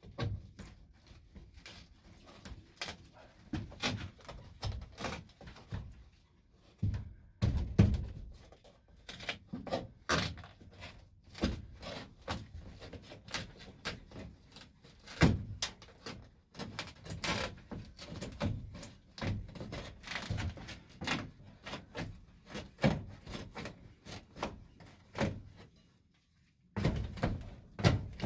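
Irregular knocks, clunks and scrapes from work inside a van's metal body as interior panels and old fiberglass insulation are pulled out.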